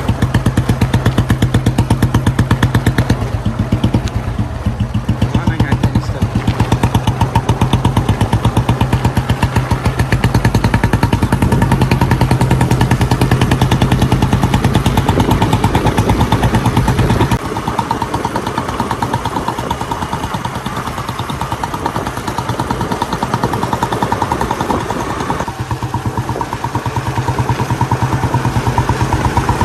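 Royal Enfield Bullet 350's single-cylinder engine running at idle with a steady, evenly spaced 'dug dug' exhaust beat. The tone of the beat shifts a few times: it thins out about halfway through and fills out again near the end.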